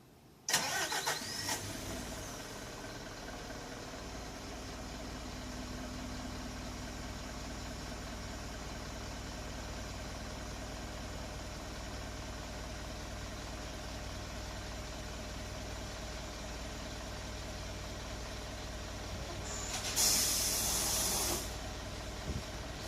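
Hino Blue Ribbon city bus diesel engine cranking and starting about half a second in, then settling into a steady idle. About twenty seconds in a loud hiss of compressed air lasts a second or so, over the idling engine.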